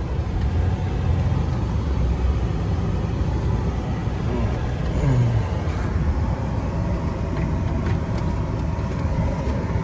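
A 2004 Chevrolet Impala LS's V6 engine running steadily just after a rough start.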